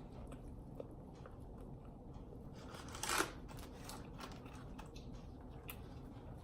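Quiet eating: faint chewing and biting sounds with small mouth clicks, and one louder, brief crackly noise about three seconds in.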